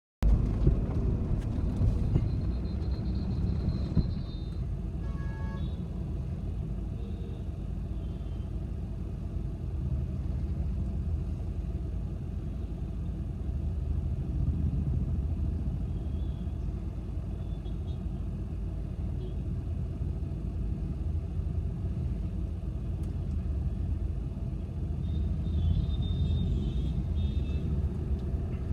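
Volkswagen Vento 1.5 TDI diesel car driving: a steady low rumble of engine and road noise, with a few brief high tones near the start and near the end.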